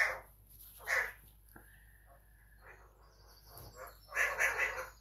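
Pet bird calling: short squawks about once a second, a steady whistled note held for about a second, then a quick run of calls near the end.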